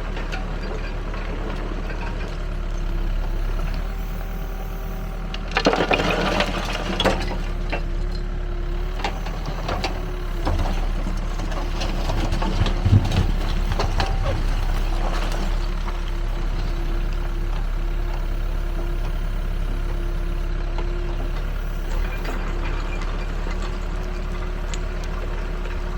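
Backhoe loader's diesel engine running steadily. Bursts of louder rattling and knocking come over it about six seconds in and again around thirteen seconds.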